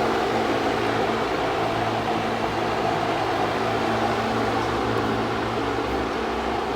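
A steady mechanical hum with a constant low drone, easing off slightly near the end.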